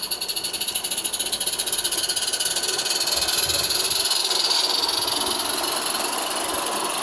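G scale live steam locomotive running, its exhaust chuffing in a rapid, even beat with a hiss of steam. It grows louder to a peak about halfway through, then eases off a little.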